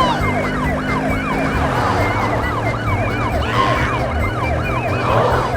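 Police-style yelp siren, its pitch sweeping rapidly up and down about three to four times a second, with a higher warbling tone over it.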